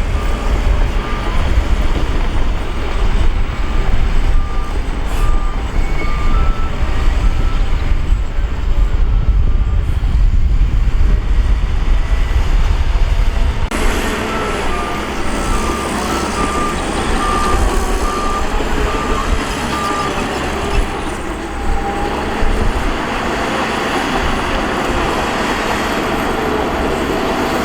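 Diesel engines of heavy earthmoving machinery running loudly, with a reversing alarm beeping over and over as a machine backs up. The engine sound changes abruptly about halfway through.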